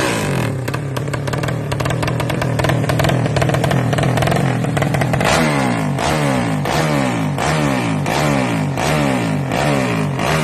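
Drag-modified Yamaha Jupiter Z single-cylinder four-stroke motorcycle engine revving through an aftermarket exhaust. It is held at steady high revs for about five seconds, then blipped over and over, about two to three rising revs a second.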